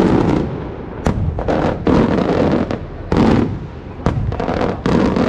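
Maltese aerial fireworks cylinder shells bursting in quick succession: about seven loud bangs in five seconds, each trailing off in an echoing rumble.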